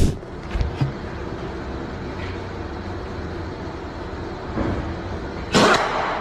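Steady vehicle running and road noise, then a sudden loud crash near the end.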